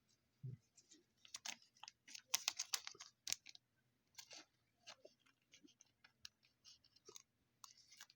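Baseball trading cards being handled and slid against one another, a faint run of light clicks and papery rustles, busiest about two to three seconds in.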